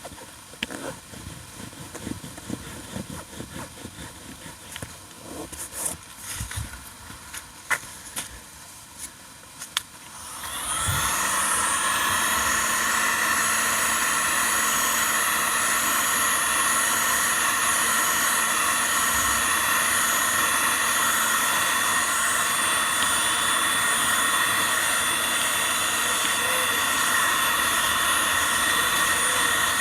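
Light handling and tapping noises, then about ten seconds in a small electric blower motor switches on, spins up quickly and runs steadily with a strong airy whoosh and a hum.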